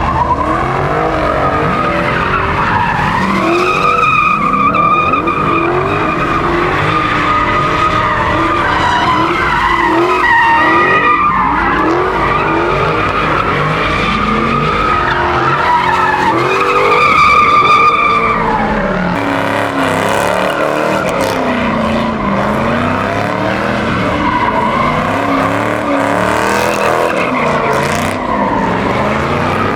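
Car tyres squealing continuously as a car drifts in circles, with the engine revving up and down under it. The squeal swells loudest about two-thirds of the way through.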